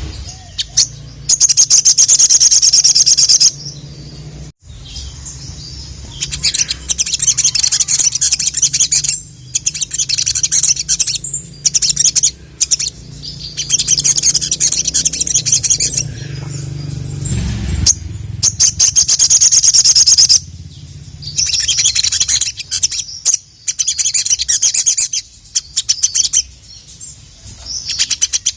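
A sogon (sogok ontong, the little spiderhunter) singing in its full song: loud runs of rapid, high-pitched chirps, each lasting a couple of seconds, repeated again and again with short pauses between.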